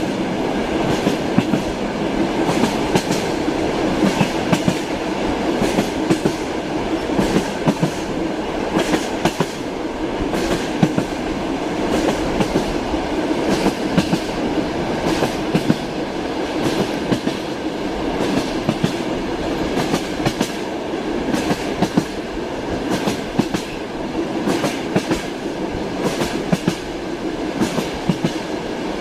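Passenger train in motion heard from inside a compartment: a steady rumble of the running carriage, with the wheels clattering over rail joints in frequent, uneven clicks.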